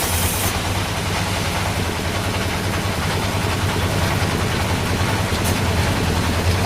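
Sawmill machinery running steadily: a low engine drone with rough mechanical noise over it. A high hiss drops away about half a second in.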